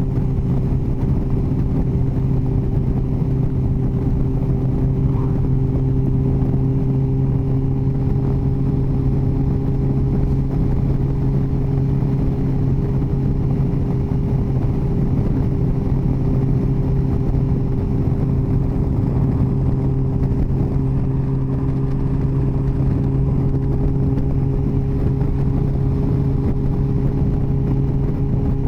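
Yamaha FJR1300's inline-four engine running at a steady cruise, its pitch holding even, under a low rush of wind and road noise.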